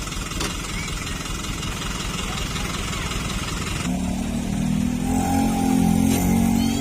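Toyota Dyna dump truck's diesel engine running, then picking up to a higher, louder steady note about four seconds in.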